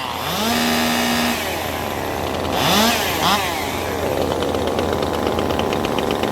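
Two-stroke racing chainsaw engine blipped up to high revs twice and dropped back, then settling into a steady, fast-ticking idle.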